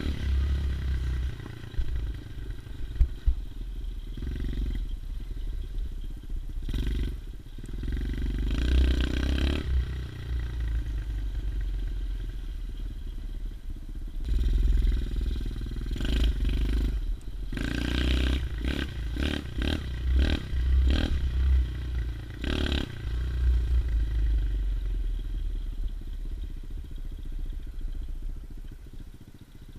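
110cc single-cylinder four-stroke pit bike engine running while being ridden, revving up and down in several surges, with a run of quick throttle blips about two-thirds of the way through.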